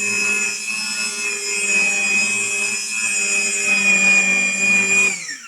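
RIDGID 535 threading machine running with a steady motor whine and rough scraping as its die head cuts threads on ribbed rebar. About five seconds in, the whine slides down in pitch and the sound stops.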